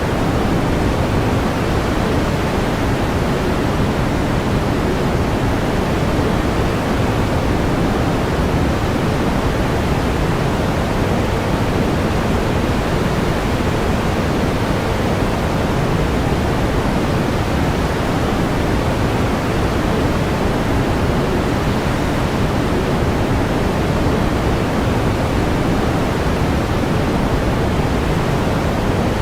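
Steady pink noise: an even, unchanging hiss weighted toward the low end, with no breaks or events.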